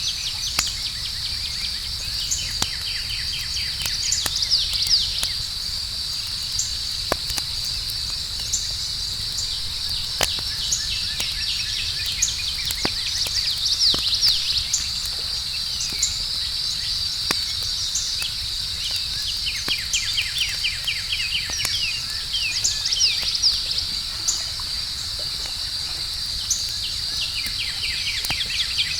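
Outdoor campfire ambience: sparse crackles and pops from burning wood over a steady high chorus of crickets. Bursts of rapid bird chirping come and go several times.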